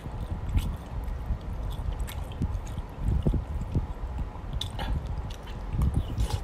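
A person chewing a mouthful of food, with repeated soft low thuds and scattered small clicks.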